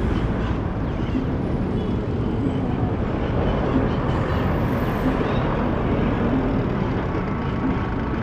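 Busy city street traffic: a steady, unbroken rumble of car, bus and truck engines and tyres on the road.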